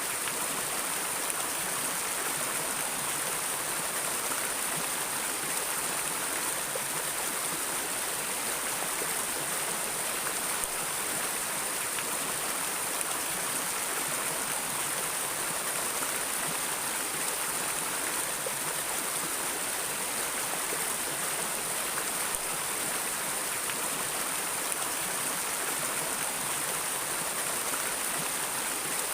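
Steady rush of flowing water in a stream, even and unbroken.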